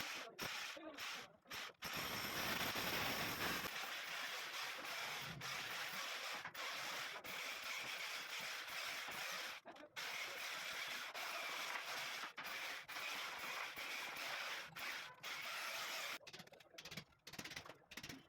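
Steady scraping and grinding noise of a tool cutting into a masonry wall, with a few brief breaks.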